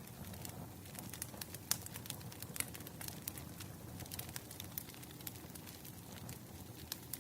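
Wood fire crackling: irregular sharp pops and snaps over a low steady rumble, with a few louder pops about two seconds in.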